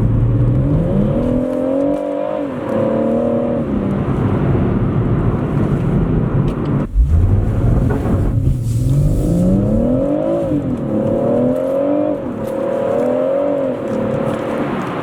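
BMW M140i's turbocharged 3.0-litre straight-six heard from inside the cabin, accelerating hard through the gears. Its pitch rises and drops back several times, with a brief break about halfway through before it climbs again.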